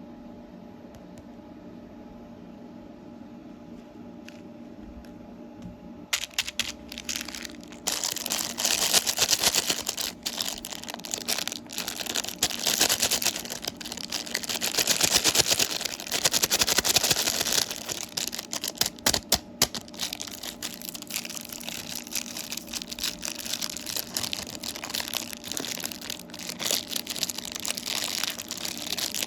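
Candy wrapper being handled and opened, crinkling and crackling with many small clicks. It starts after a few seconds of steady low room hum and is loudest in the middle.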